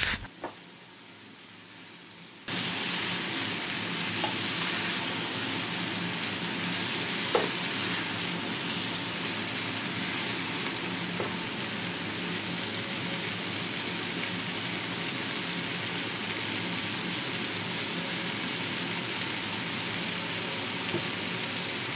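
Chicken strips, bell peppers and onions sizzling steadily in oil in a frying pan over high heat, stirred now and then with a spatula; the sizzle starts suddenly about two and a half seconds in.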